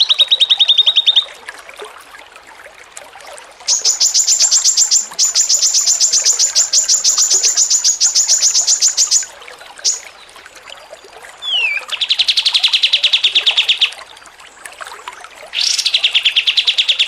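A songbird's chattering song of very fast rattling trills, each a rapid run of identical high notes. A short higher-pitched run, then a long run of several seconds, a single downward-sliding note, and two more runs at a lower pitch, the last led in by a quick rising note.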